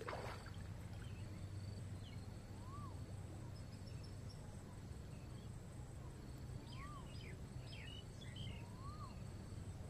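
Faint outdoor ambience: a low steady hum with a few bird calls, three short rising-and-falling whistled notes spread through and a flurry of high chirps about two-thirds in.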